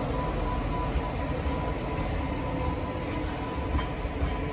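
Container wagons of a JR Freight train rolling past: a steady rumble of wheels on rail with a thin high tone above it and a couple of sharp clicks near the end.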